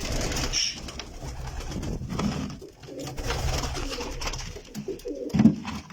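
Domestic pigeons cooing, several low, pulsing coos overlapping one another, with a louder coo near the end.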